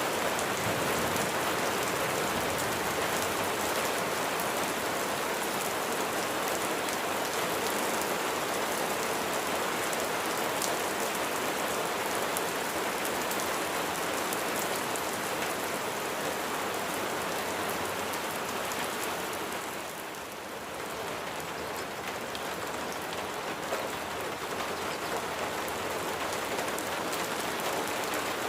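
Steady rain falling and pattering on a surface, a continuous even hiss that dips slightly about twenty seconds in.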